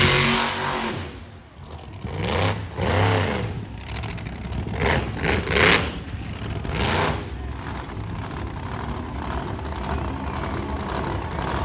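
Monster truck engine revving in several short blips, its pitch rising and falling, then running more steadily in the second half.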